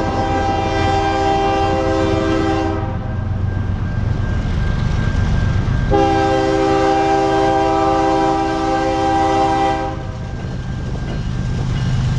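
Diesel locomotive air horn on an eastbound BNSF freight train sounding two long blasts, the first about three seconds and the second about four seconds, each a steady multi-note chord. Under them runs the low rumble of the locomotives' diesel engines.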